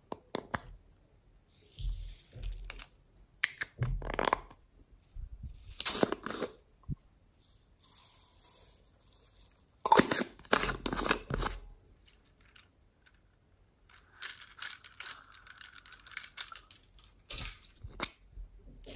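Slime being squished, stretched and pulled apart by hand, in irregular bursts of sticky tearing and crackling, loudest about ten seconds in.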